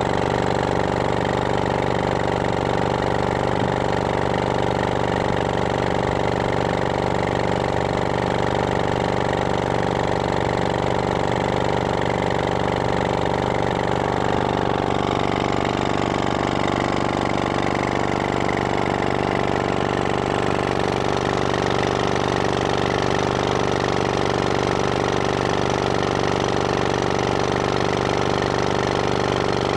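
1924 Johnson Model B 2 HP two-stroke outboard motor running steadily, its pitch dipping slightly about halfway through.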